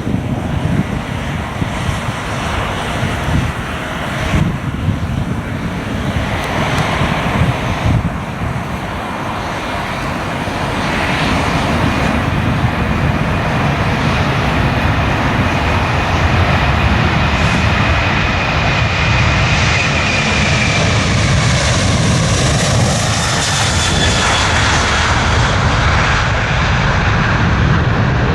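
Jet airliner departing: a growing engine roar with a steady high fan whine that sets in about ten seconds in and becomes loudest in the second half. Wind gusts on the microphone rumble in the first few seconds.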